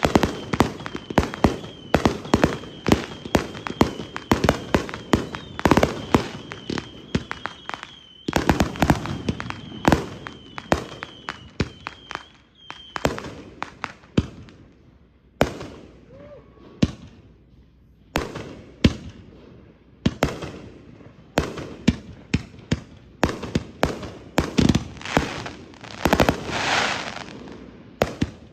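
Consumer firework cakes firing a rapid string of sharp reports and aerial breaks, with a thin steady high whistle running under them for the first half. The shots thin out past the middle, and a longer hissing, crackling burst swells up near the end.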